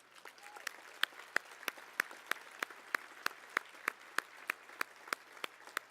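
Audience applauding, with one nearby pair of hands clapping loudly and evenly, about three claps a second, over the general clapping.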